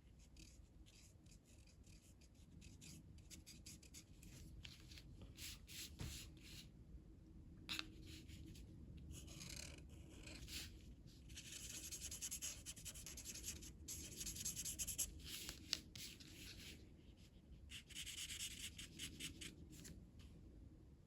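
A colour stick scratching on paper as an area is shaded in: faint short strokes at first, then longer, denser back-and-forth rubbing from about halfway through.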